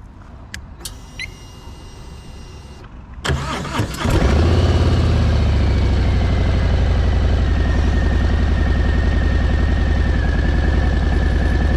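Harley-Davidson Fat Boy's V-twin engine cranked on the electric starter about three seconds in, catching within a second and settling into a steady, loud idle. A few clicks and a short electronic tone come before the start.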